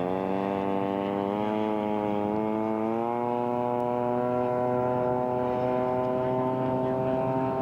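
Radio-controlled scale model airplane's engine running. Its pitch rises in steps over the first three seconds as the throttle opens, then holds steady.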